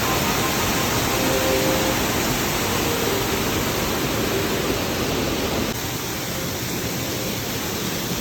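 Rushing stream water, a steady even rush of noise that becomes a little quieter and duller about six seconds in.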